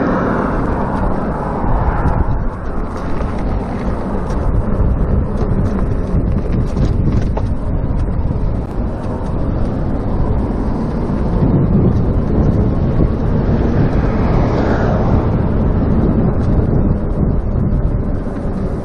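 Wind buffeting a chest-mounted GoPro microphone on a moving electric bicycle: a steady, heavy low rumble.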